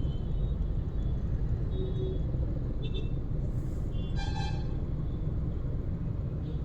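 Road traffic: a steady low rumble of engines and tyres, with short horn toots from other vehicles, the loudest a brief honk about four seconds in.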